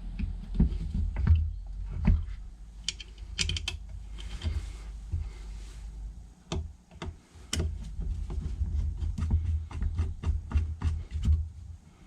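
Irregular light clicks and taps of small metal parts and screws being handled and fitted on a motorcycle carburettor assembly, with low knocks from handling the parts.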